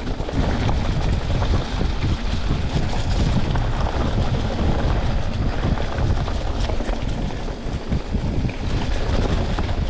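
Wind buffeting the microphone of a mountain bike ride camera, over the rolling of knobby tyres on a dirt trail covered in fallen leaves.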